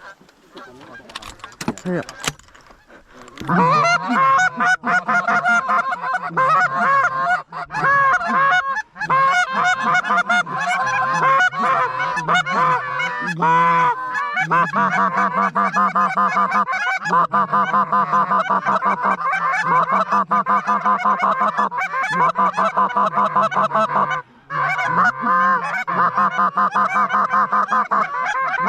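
Many geese honking in a loud, dense chorus of rapid, repeated honks. It starts about three and a half seconds in, after a few quieter seconds, and keeps on almost without a break.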